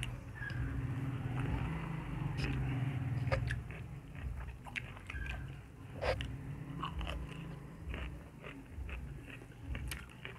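Close-miked chewing and biting, with many short crisp clicks. Near the end there is a bite into a fresh okra pod.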